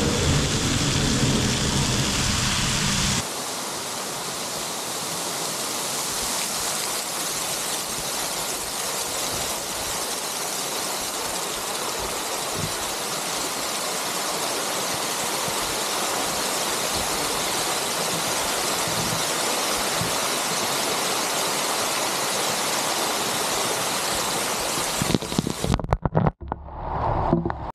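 Kursunlu Waterfall pouring, heard from right beside the falls as a steady, even rushing of water. About three seconds in the sound changes and loses its low rumble. Near the end it breaks up into uneven bumps and dropouts.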